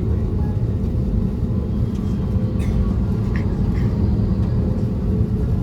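Steady low rumble inside the passenger cabin of an Airbus A320neo with CFM LEAP-1A engines: engine and airframe noise heard from a rear economy seat, even in level throughout.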